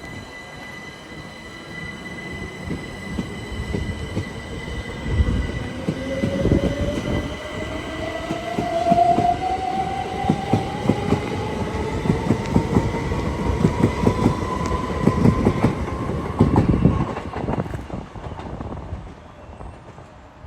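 Electric train going by at close range, its motor whine rising steadily in pitch as it gathers speed, over a rapid run of wheel clicks on the rails. It builds up over the first few seconds and fades near the end.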